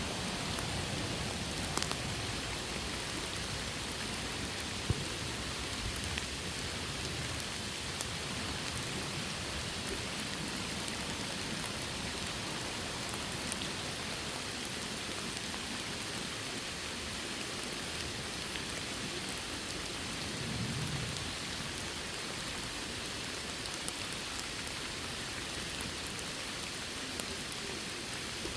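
Steady rain falling, an even hiss with scattered sharper drops landing close by and a brief low rumble about twenty seconds in.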